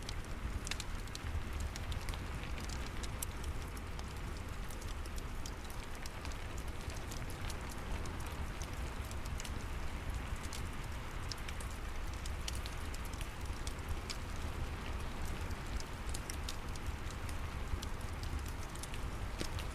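Steady rain mixed with a crackling fireplace: a constant hiss over a low rumble, with many small sharp pops scattered throughout.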